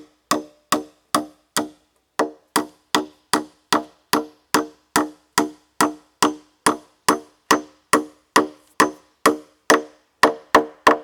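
A steady run of hollow, pitched knocks, about two and a half a second, each ringing briefly, coming quicker and louder near the end.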